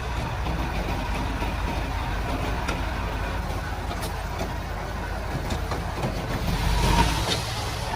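Komatsu D31-P bulldozer's diesel engine running steadily, with a few sharp clicks over it. It swells briefly in loudness about seven seconds in.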